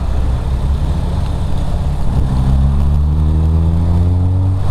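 Car engine pulling, its pitch rising steadily from about two seconds in as the car accelerates.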